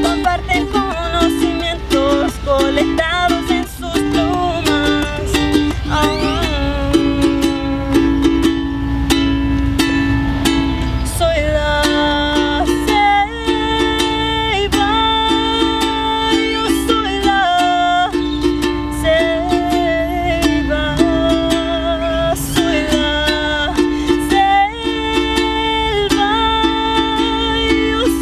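Ukulele strumming chords, with a melody of long held notes above it.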